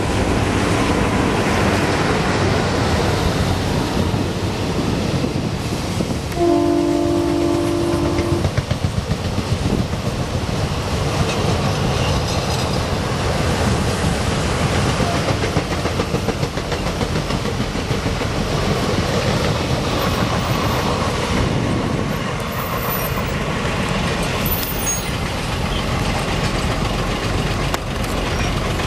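Passenger train hauled by two diesel locomotives running past, the engines and wheels making a steady rumble. A horn sounds for about two seconds, about six seconds in, and the coaches then rattle over the rail joints as they go by.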